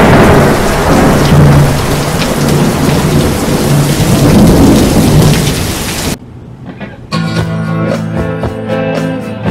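Heavy rain pouring with rumbling thunder, which cuts off suddenly about six seconds in. After a second of quiet, guitars start strumming a rock song's intro.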